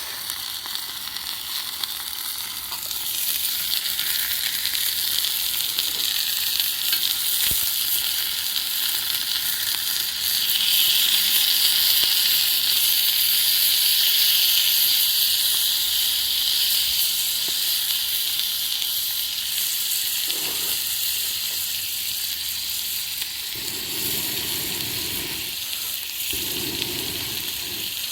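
Chicken gizzards and chicken skin sizzling as they stir-fry over a wood fire, a steady hiss that grows louder for several seconds midway.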